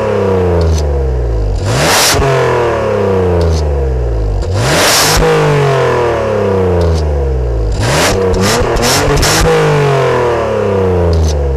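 BMW E36 328i's 2.8-litre straight-six engine being revved repeatedly: about every three seconds the revs jump up sharply with a loud bark, then fall slowly back.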